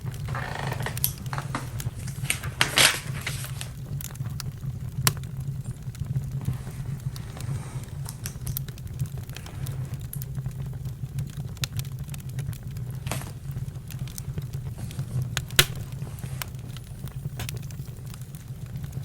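Campfire crackling: a steady low rumble with a few sharp pops scattered through it, the loudest about three seconds in and another well past the middle.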